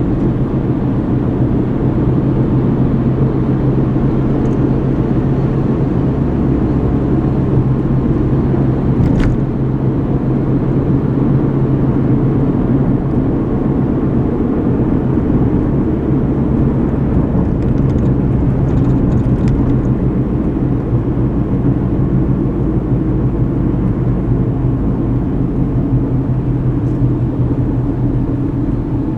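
Car driving at a steady speed, heard from inside the cabin: a steady low hum of engine and tyres on the road. A single faint click comes about a third of the way in, and a few faint ticks a little past the middle.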